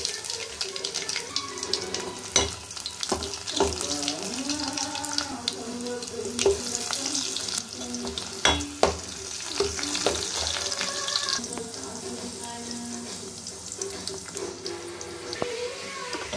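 Tempering (tadka) of cumin seeds, dried red chillies, garlic and onion sizzling in hot oil in a stainless steel pot, with a steady hiss. A perforated steel ladle stirs and clinks against the pot several times.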